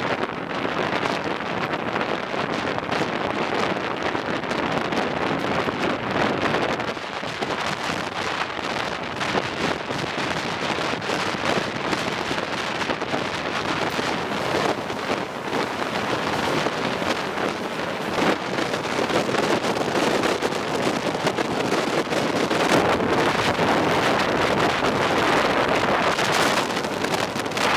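Wind buffeting the microphone at the side of a speeding Gatimaan Express coach, over the steady rumble and clatter of the train's wheels as it runs across a steel truss bridge. It grows a little louder near the end.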